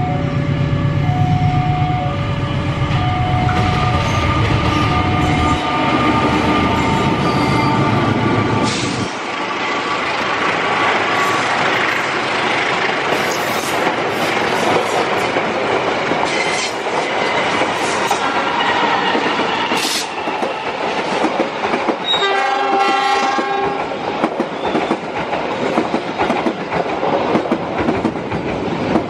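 Diesel-hauled passenger trains running into a station: a heavy diesel locomotive rumble for about the first nine seconds, then wheels clattering over the rails, with a horn blast about 22 seconds in.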